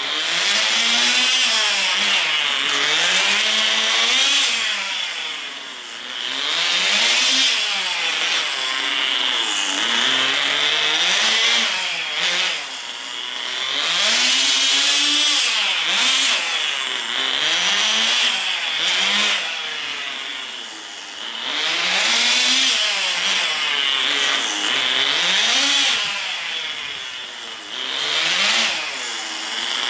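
Small two-stroke glow (nitro) engine of a Tamiya TGS 1/10 RC car being driven, its high buzzing note rising and falling over and over as the throttle is opened and closed.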